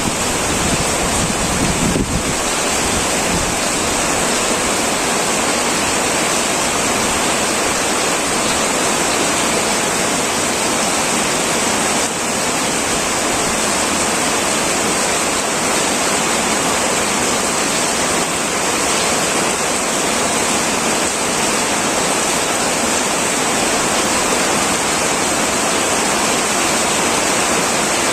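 Heavy rain pouring steadily onto a tin metal roof, a dense, even hiss. A low rumble underneath dies away about two seconds in.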